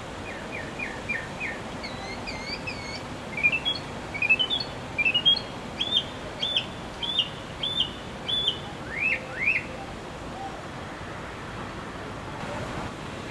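A songbird singing in phrases of quick, clear repeated notes, each phrase a short run of the same note, with a pause of a second or so between phrases. The singing stops a little before the tenth second, leaving a steady background hiss.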